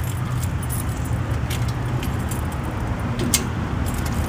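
Keys jangling on a ring while a gate's double-cylinder deadbolt is worked, with a couple of sharp metallic clicks, over a steady low hum.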